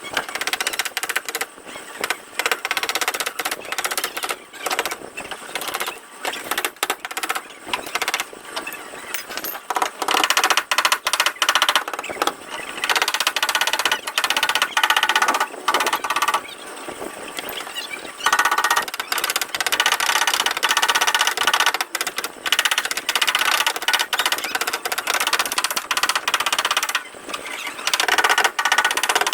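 Rapid, continuous tapping on a car body panel, metal ringing under quick light blows, as in paintless dent repair tapping down the dent.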